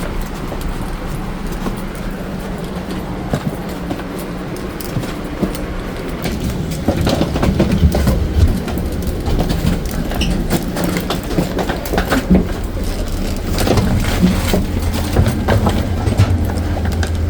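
Amtrak passenger train rolling slowly on arrival: a steady low rumble with irregular clicks and clanks from the cars, growing busier and a little louder about six seconds in.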